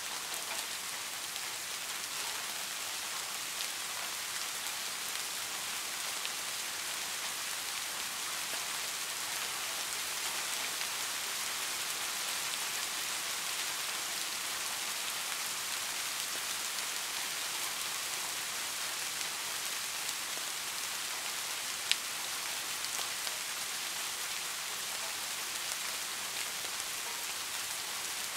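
Heavy rain falling steadily, a dense even hiss with no lulls. One sharp click stands out about three quarters of the way through.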